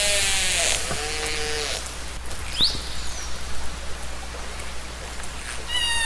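Killer whale (orca) calls recorded underwater: a falling, many-toned call that fades within the first second, then a shorter, lower call about a second in, and a brief upward chirp a little after two seconds. Steady hissing water noise runs underneath.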